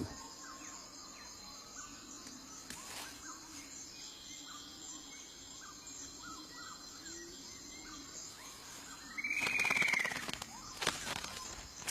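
Faint forest ambience with small bird chirps. About nine seconds in comes a louder buzzy bird call, a rapid rattle under an arching tone lasting about a second and a half.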